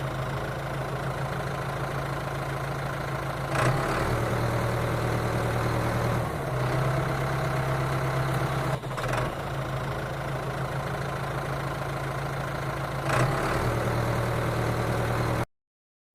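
Engine idling steadily with a low, even hum that shifts slightly every few seconds, then cuts off abruptly near the end.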